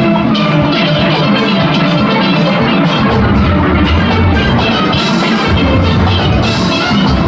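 Steel orchestra of young players performing: massed steelpans of several ranges playing over drums that keep the beat. The low bass drops out for about the first three seconds and again briefly a little later.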